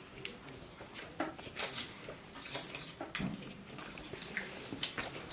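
Light handling clicks and a few short scraping strokes: the tip of a strike-to-light firework being rubbed along its striker paper.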